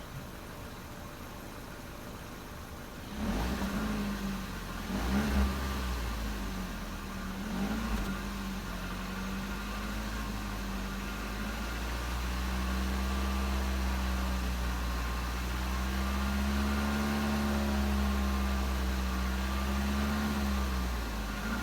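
2016 Ford Fusion SE running on its stock exhaust: a quiet steady idle, then about three seconds in the engine picks up and runs louder with a deep rumble. Its note wavers up and down before settling into a steadier, louder drone that swells gently near the end.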